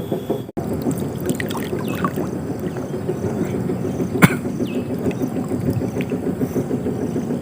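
Water sloshing and lapping around an angler wading waist-deep, steady and irregular, with one sharp click about four seconds in.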